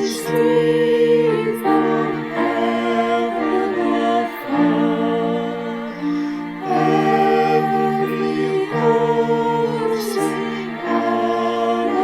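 Choir singing a slow piece in held chords that change every second or two.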